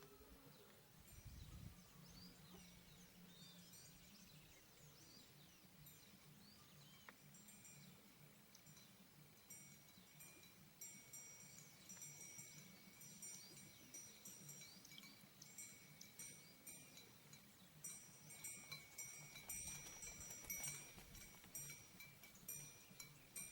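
Faint chirps and short calls of small birds over a steady high-pitched hum, with a run of quick ticks near the end.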